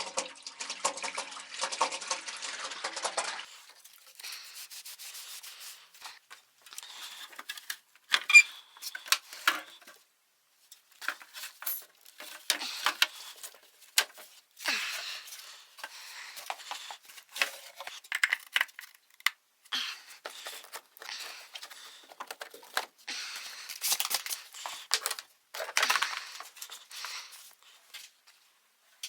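Hands working with parts and tools: rubbing and rustling for the first few seconds, then scattered sharp clicks, knocks and short scrapes, the loudest click about eight seconds in.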